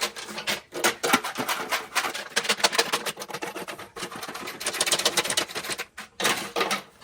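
A Honda CB160 gas tank being shaken by hand, with contents rattling inside it in rapid, dense runs, broken by a couple of short pauses, to loosen rust.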